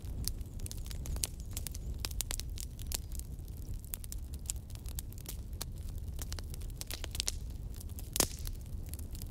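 Wood fire crackling: a steady low rumble of flames with many sharp pops and snaps, irregular and close together. The loudest pop comes a little past eight seconds in.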